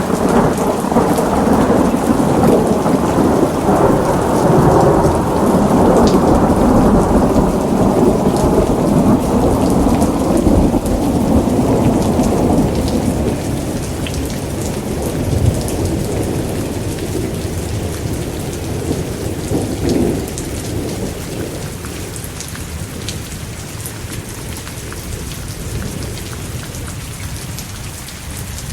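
A long roll of thunder that swells at the start and slowly dies away over about twenty seconds, with a smaller rumble near the middle, over steady heavy rain.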